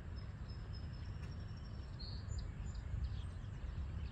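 Outdoor ambience with a steady low wind rumble, over which a bird gives a long thin whistle lasting a couple of seconds, then a short chirp about two seconds in.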